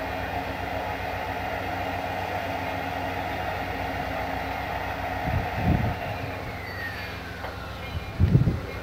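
Amtrak passenger train standing at a station platform, its diesel locomotive idling with a steady rumble and hum. Two short low thumps come about five and eight seconds in.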